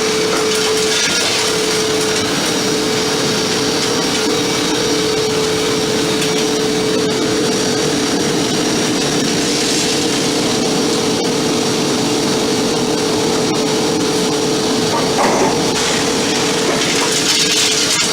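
Scooter engine running at a steady speed: one constant hum under an even rushing noise, with no change in revs.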